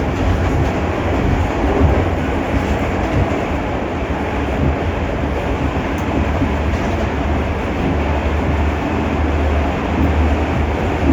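R46 subway train running steadily underground: a continuous rumble of wheels on rail with a heavy low drone.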